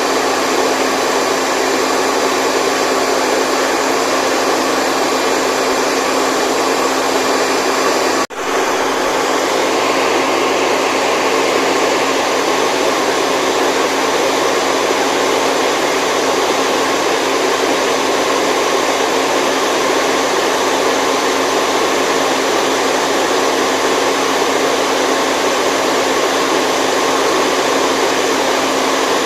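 Steady whooshing white noise for baby sleep, with faint steady tones running through it like a hair dryer's hum. It cuts out for an instant about eight seconds in and resumes, a seam in the loop.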